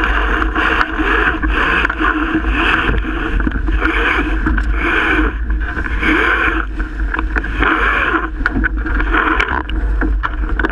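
Strong wind buffeting the microphone, with water rushing and splashing along the hull of a Melges 24 sailboat sailing hard in 30-plus-knot wind. The water noise surges in pulses about once a second over a constant deep rumble.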